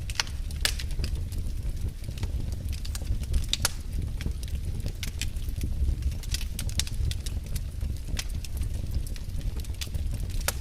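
Campfire burning: a steady low rumble under frequent, irregular sharp crackles and pops of burning wood.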